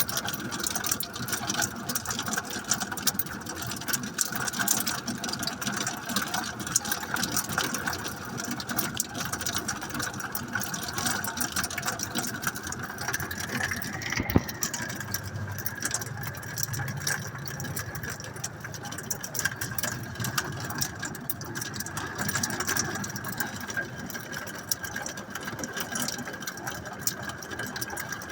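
Rain with some hail falling: a dense, fast, steady patter of drops and hailstones striking, with one sharper hit about halfway through.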